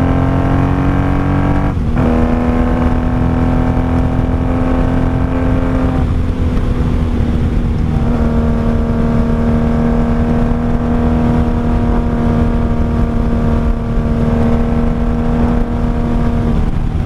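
Honda Magna VF750C's V4 engine pulling under throttle, its note rising, with a short break about two seconds in, a change again around six to eight seconds, then holding a steady note at cruise. Heard from the rider's seat with a low rumble under it; it runs well, apart from a jetting issue that the owner notes.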